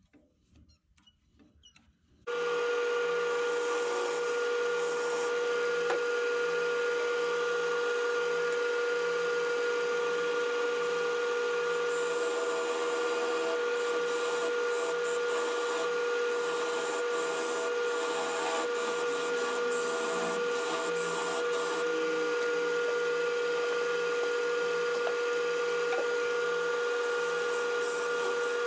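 Wood lathe running with a steady whine while a carbide turning tool shapes a maple bottle-stopper blank, the cutting coming as bursts of high scraping hiss. It starts suddenly about two seconds in, after near silence.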